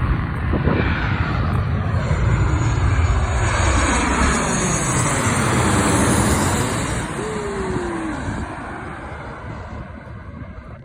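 Jet aircraft passing overhead: loud engine noise with a high turbine whine, fading away over the last few seconds.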